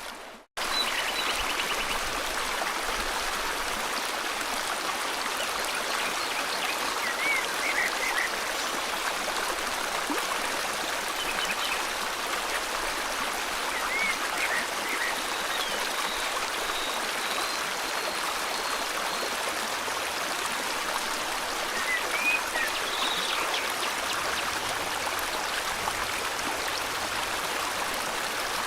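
River water flowing steadily, with scattered short bird chirps over it. The sound cuts out for a moment just after the start, then carries on.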